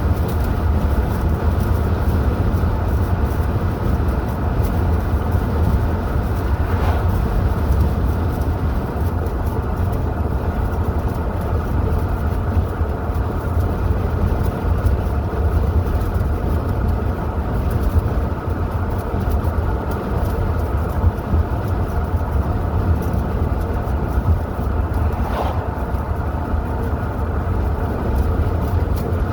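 A car driving along a highway: a steady, low drone of engine and tyre road noise that does not let up.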